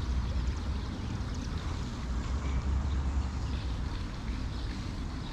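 Low, steady wind rumble on the microphone outdoors on the water, with a few faint small ticks over it.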